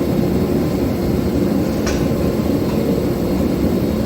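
Steady low roar of a gas forge burner running, with a faint click about two seconds in.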